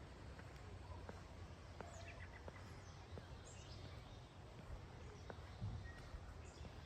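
Faint rural outdoor ambience: a steady low rumble with a few faint, short bird chirps and scattered small ticks.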